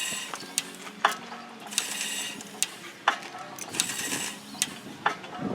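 A 15 horsepower Fairbanks stationary engine, igniter-fired and throttle-governed on propane, running very quietly. It gives a slow, regular rhythm of light clicks and soft puffs.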